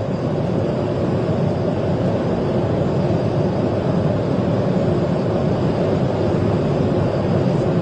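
Police car driving at high speed in a pursuit: a steady rush of engine, tyre and wind noise.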